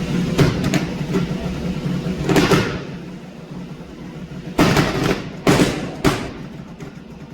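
Modified car engine held at high revs for about three seconds, then easing off, with a string of sharp, loud exhaust bangs, ending in three big ones a second or so apart. Whether the bangs come from anti-lag or just the engine screaming is unclear, even to those there.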